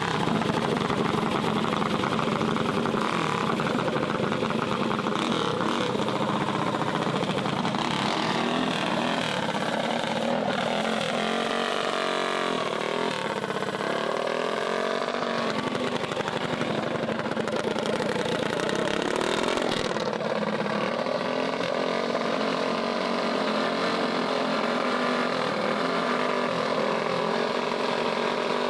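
Small mini bike engines running, their pitch falling and rising between about eight and sixteen seconds in.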